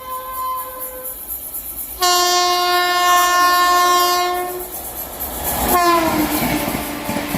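Indian Railways express train horn sounding as the train approaches at speed: the tail of one blast, then a loud longer blast about two seconds in. Near the end the horn's pitch drops sharply as the locomotive passes, and the rush of the coaches with wheels clattering over the rails takes over.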